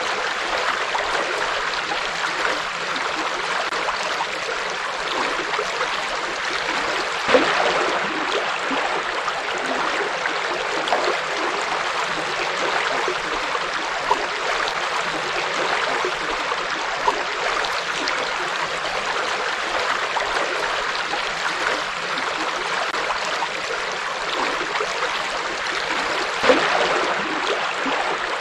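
Forest river flowing, a steady rushing and gurgling of water, with a couple of brief louder splashes.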